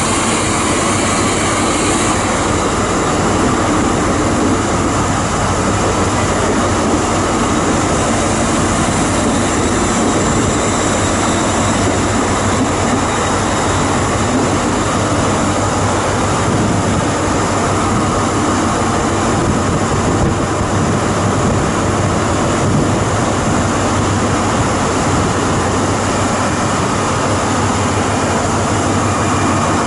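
A train running steadily: a continuous loud drone with a low hum and no distinct knocks or horn.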